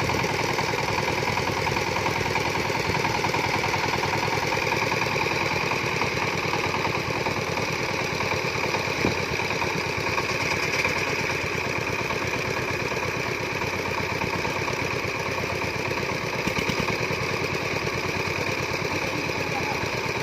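Diesel farm engine running steadily, its firing a rapid even beat.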